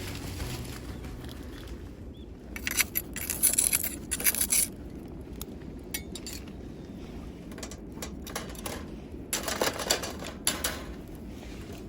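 Metal cooking utensils clinking and scraping in two short bouts, about three seconds in and again near ten seconds.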